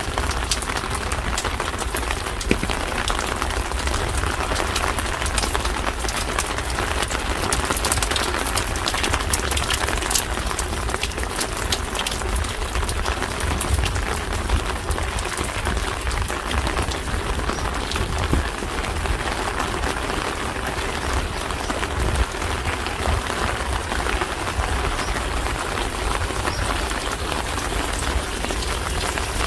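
Steady rain falling on a street, a dense patter of many small drop ticks over an even hiss, with a low rumble underneath.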